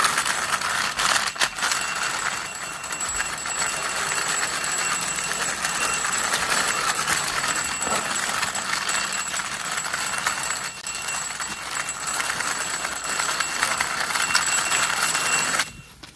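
A white toy cow playing its built-in electronic tune as it is pushed along, a steady tinny beeping melody that cuts off shortly before the end.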